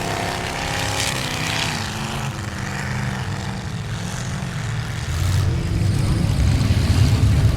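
Square-body Chevy mud truck's engine running, growing louder about five seconds in as it revs up.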